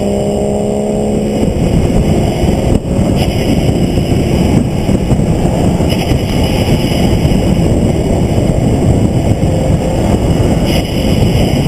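Onboard sound of a vehicle lapping a race track. The engine note rises for about the first second, then disappears under a steady, loud rush of engine and wind noise, with two brief dips in level, one about three seconds in and one near the end.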